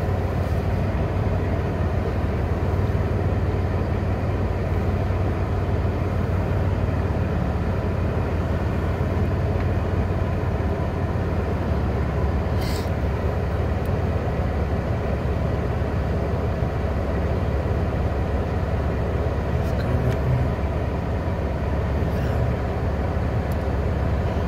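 Steady low rumble of a car driving, heard from inside the cabin, with one short click about halfway through.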